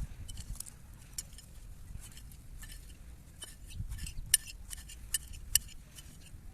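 Scattered sharp, light clicks and clinks at irregular intervals, a few louder ones near the end, over a low background rumble.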